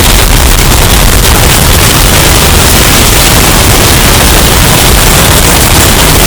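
Hurricane wind sound effect, bass-boosted and overdriven into heavy distortion: a steady, very loud wall of wind noise with a booming low end.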